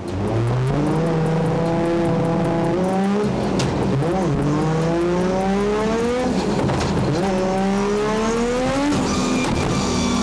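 Nissan RB26 twin-turbo straight-six in an E92 M3 drift car accelerating hard: its pitch climbs steadily, dips briefly about four and seven seconds in and climbs again, then falls and holds steady near the end.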